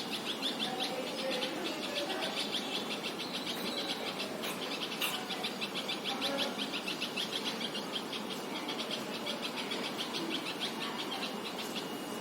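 Steady background chirping: a fast, even pulse of high-pitched chirps, many a second, with faint scattered lower sounds beneath.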